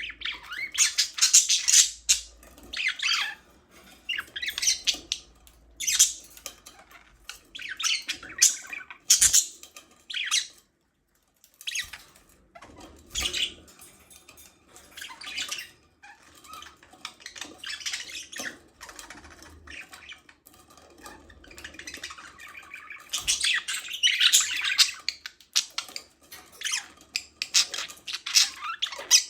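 Budgerigars chirping and squawking in irregular bursts of high, scratchy chatter, several birds calling over one another. There is a brief silent gap about eleven seconds in.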